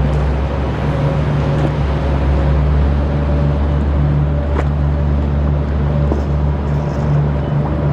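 Boat engine running steadily with a low, even drone, over the wash of the river.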